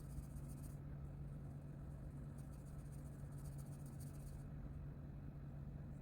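Colouring strokes scratching on paper in quick back-and-forth scribbles, in two spells: briefly at the start, then for about two seconds in the middle. A steady low electrical hum runs underneath.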